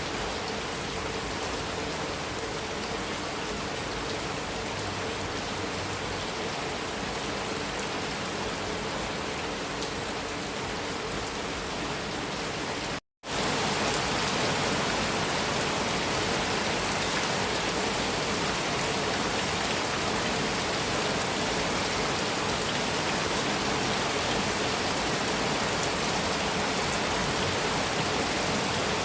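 Heavy rain falling steadily on a metal roof. About halfway through it cuts out completely for a split second, then resumes slightly louder.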